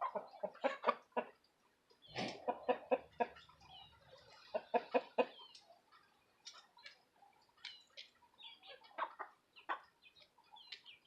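Chickens clucking in quick runs of short calls, three runs in the first five seconds, followed by scattered, higher single calls.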